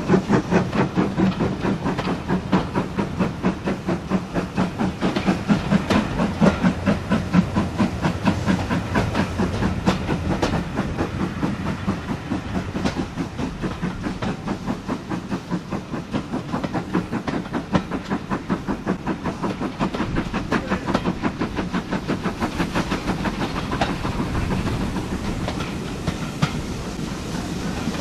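Train running along the track, wheels clicking over rail joints in a steady rapid rhythm.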